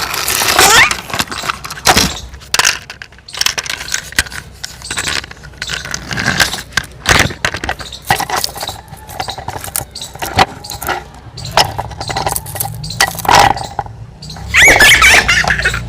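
Plastic toys clicking and clattering as they are handled, with a small child's high squeals near the start and again near the end.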